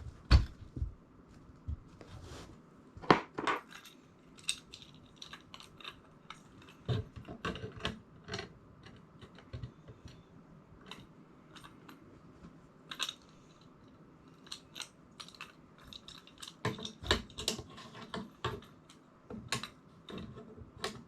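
Irregular clicks, clinks and taps of small metal mounting hardware being handled and fitted, with a few louder knocks among many light ticks.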